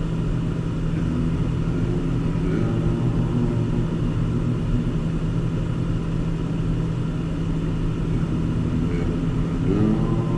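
Car driving, heard from inside the cabin: a steady low engine and road drone.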